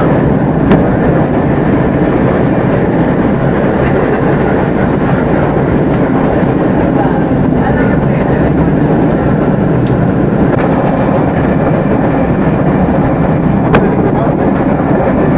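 Steady running noise of a Class 387 electric multiple unit at speed, heard inside the carriage: a continuous rumble of wheels on rails, with a sharp click about a second in and another near the end.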